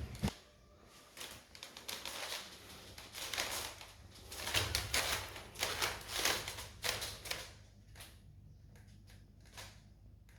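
Irregular clicks, taps and scrapes of hands working with tools and parts, thickest in the middle and thinning out near the end, over a faint steady low hum.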